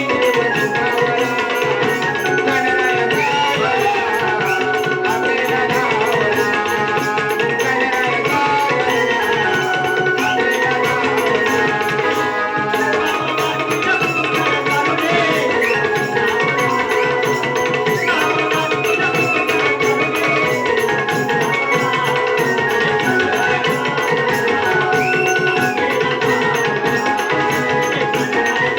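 Live Naman folk music from the Konkan: a hand drum keeps a steady, quick rhythm under sustained melodic lines, the accompaniment of a gan (invocation song).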